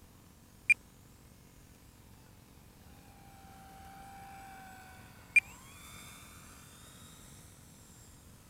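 Two short, sharp electronic beeps, about 0.7 s and 5.4 s in. Between them and after, the faint whine of the model plane's electric motor rises and falls in pitch as the plane flies.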